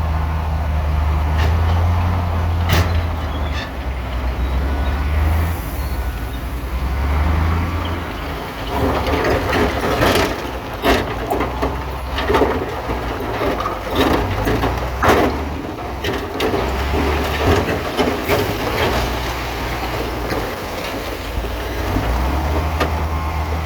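Bulldozer's diesel engine running under load, with a low drone that rises and falls, and a run of clanks and knocks in the middle from the steel tracks and rock.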